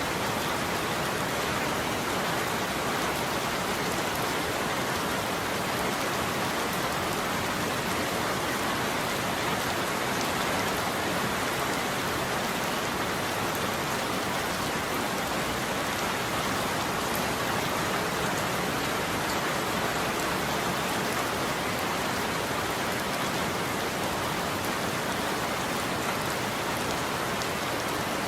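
Steady heavy rain falling on a surface, an even hiss of drops with no thunder.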